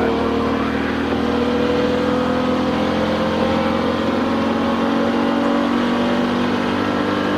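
Touring race car's engine heard from inside the cockpit, pulling hard at high revs, its pitch rising slowly and steadily as the car gathers speed.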